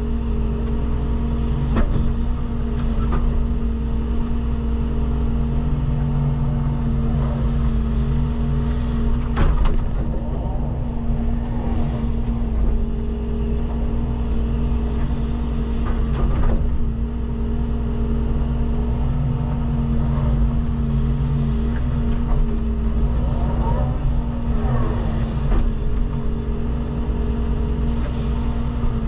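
Wheeled excavator's diesel engine running steadily under hydraulic load while loading soil, with a few sharp knocks and a brief wavering whine about 24 seconds in.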